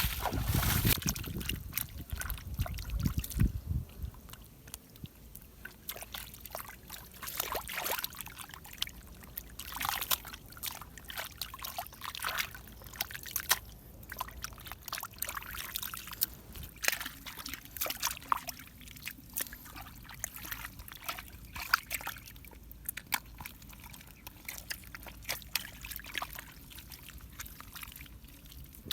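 Shallow river water sloshing and trickling, with irregular small splashes and sharp clicks, over a low rumble during the first few seconds.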